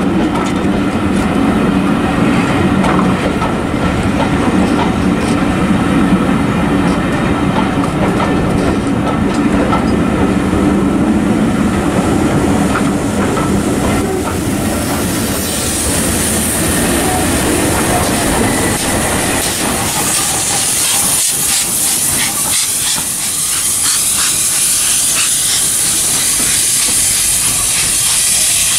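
Passenger coaches rolling past, wheels clacking over the rail joints with a steady hum underneath. About halfway through, a loud steady hiss of steam from the GWR King class steam locomotive takes over.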